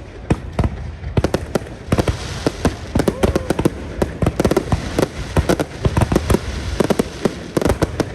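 Fireworks display going off in rapid succession: many sharp bangs and pops a second overlapping one another, thickening into a near-continuous crackle about two seconds in.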